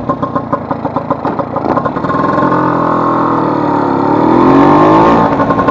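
Vespa 150's single-cylinder two-stroke engine, first firing in a low-rev pulsing beat, then accelerating with its pitch climbing. The pitch dips briefly near the end, as at a gear change, and starts rising again.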